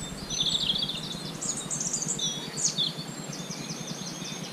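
Songbirds singing: several phrases of quick, high trilled and repeated notes one after another, over a steady low hum.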